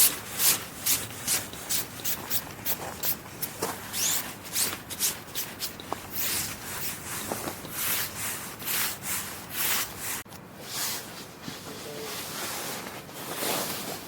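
Rhythmic scraping strokes, about two or three a second, stopping about ten seconds in, followed by softer hissing rubs.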